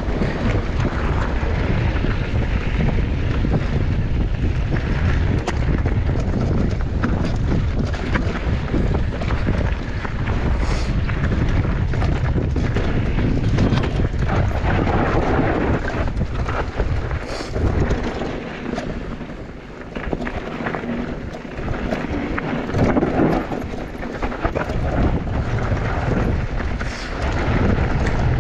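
Wind buffeting the microphone and mountain bike tyres rumbling over a rough downhill trail, with many knocks and rattles from the bike over bumps.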